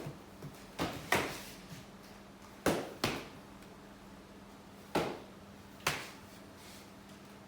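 Foam pool noodles smacking against raised forearms as they are blocked: six sharp slaps coming in pairs, about every two seconds. A steady low hum sits underneath.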